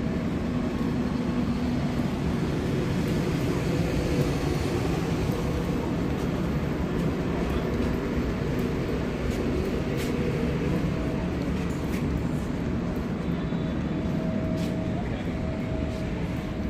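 Stationary passenger train standing at the platform, its machinery running with a steady low hum and rumble, with a few faint clicks.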